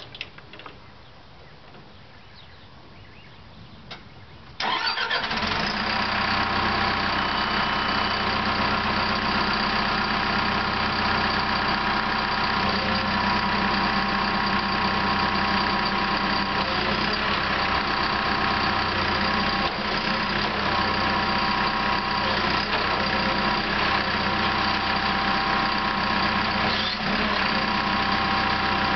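Caterpillar D5 dozer's diesel engine comes on abruptly about five seconds in, after a few faint clicks, then runs steadily at idle.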